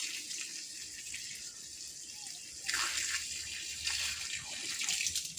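Water running and splashing steadily as plants are watered, a hiss that gets louder about two and a half seconds in.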